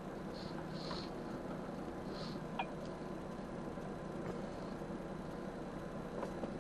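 Steady engine and road noise of an HGV heard inside the cab while it moves slowly, with a brief faint chirp falling in pitch about two and a half seconds in.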